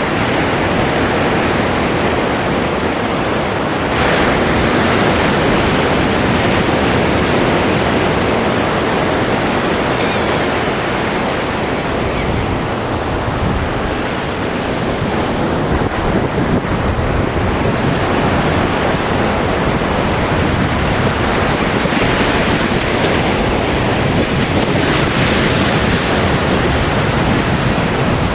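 Ocean surf: a continuous rush of breaking and washing waves, swelling suddenly about four seconds in and again near the end.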